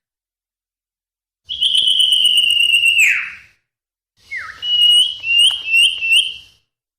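Common iora (cipoh) song: a long clear whistle that slides sharply down at its end, then a short falling note and a run of four quick chirps.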